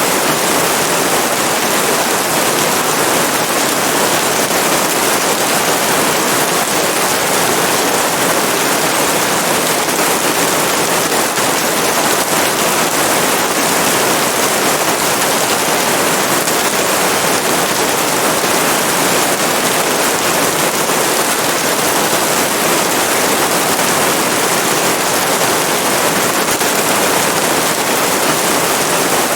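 Steady rain, a dense, even hiss with no separate drops, thunder or changes in level.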